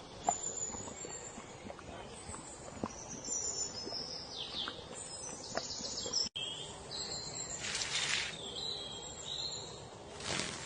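Outdoor nature ambience: scattered short, high bird chirps and insect calls over a faint background hiss, with a brief gap about six seconds in.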